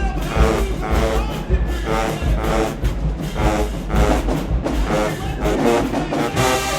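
Marching band playing: brass chords in short repeated phrases over heavy bass drums and percussion.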